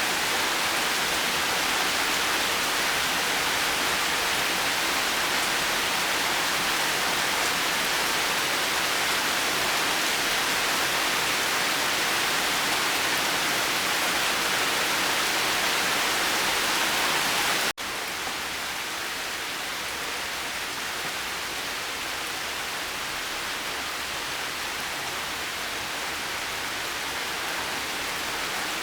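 Steady rain, an even hiss of rainfall. About two-thirds of the way through it cuts out for an instant and comes back a little quieter and duller.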